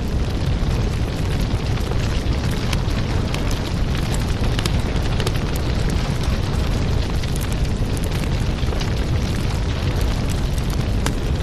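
Fireplace ambience: a fire crackling, with many small irregular pops over a steady low rumble.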